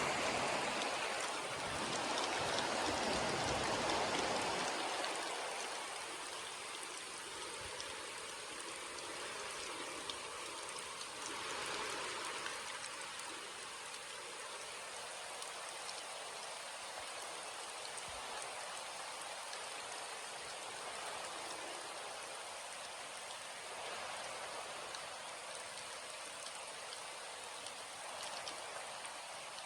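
Steady rain falling, a dense even hiss with scattered individual drops ticking, somewhat louder for the first few seconds before settling.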